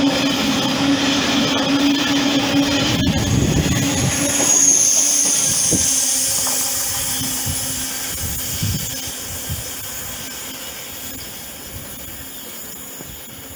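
Freight train of open box wagons rolling past on the rails, with a clank about three seconds in and a brief high squeal a little after, the rumble fading steadily as the last wagon goes by and draws away.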